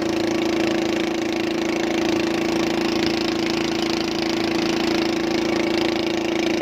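Boat engine idling steadily, a constant even hum with no change in speed.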